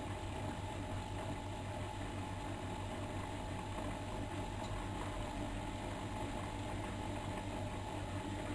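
Miele Novotronic front-loading washing machine running steadily during a 95°C boil wash, with a constant low hum and a faint steady whine.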